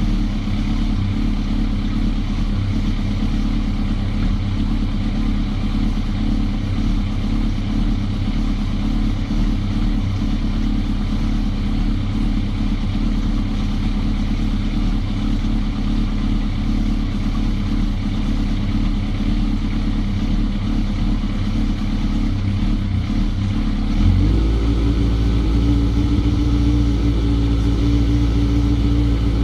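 Suzuki GSX-R's freshly rebuilt inline-four engine running steadily at idle. Near the end the revs step up and hold at a higher, slightly louder steady speed.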